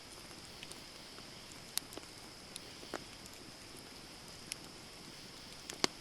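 Campfire wood burning: scattered sharp crackles and pops, the loudest one near the end, over a steady high-pitched hiss.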